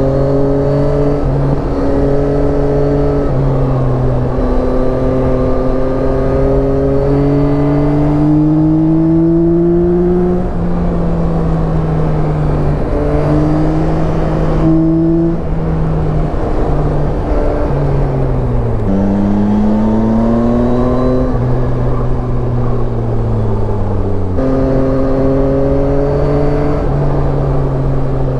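Yamaha Tracer 9's three-cylinder engine pulling under way, its pitch climbing and breaking at several gear changes. About two-thirds through it eases off and the pitch falls, then it settles into steady running. A constant low wind rumble lies beneath.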